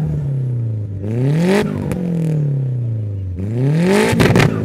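Car engine being revved three times, each rev climbing quickly and then dropping back slowly toward idle. Near the end comes a quick run of sharp pops.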